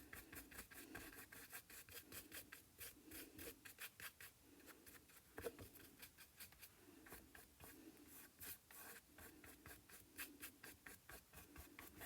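Faint, repeated scrubbing strokes of a paintbrush on canvas, roughly two a second, brushing a thin acrylic wash across the surface.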